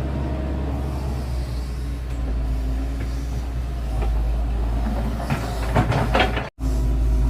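Excavator's diesel engine running steadily with a low rumble, and a burst of metallic clanking and clattering about five to six seconds in. The sound cuts out for an instant just after and then resumes.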